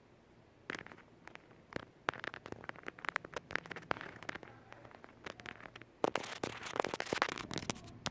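Cockatiel chewing and rustling in its cage: a run of irregular crackling clicks that starts about a second in and grows thickest from about six seconds in.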